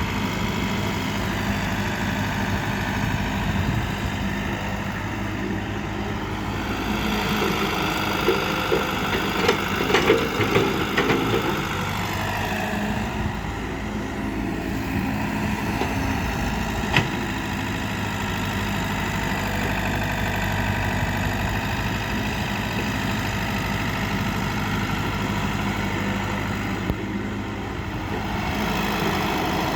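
Heavy machine's diesel engine running steadily, with a spell of rattling and knocks about ten seconds in and a single sharp click near the middle.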